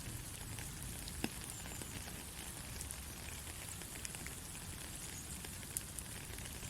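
Steady light rain, with individual drops ticking on a surface scattered through it, and two sharper drop hits, one about a second in and one near the end.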